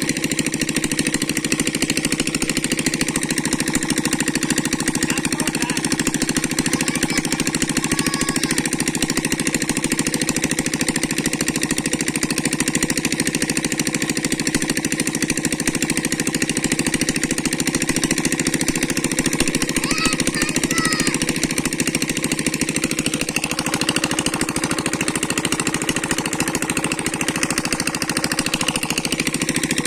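A small engine running steadily at a constant speed, with a fast, even chugging pulse.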